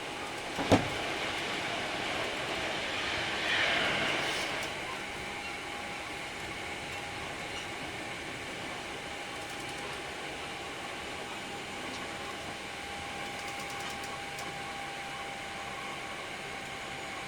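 Hankyu 3300 series electric train running, heard from inside the car: a steady rumble of the moving train. A sharp knock comes about a second in and a brief hissing swell about four seconds in, after which a steady thin tone holds over the rumble.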